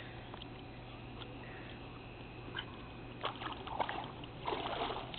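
Shallow pool water splashing and sloshing in short irregular bursts, as dogs paw at the water on a pool step. The splashing starts about three seconds in and thickens near the end.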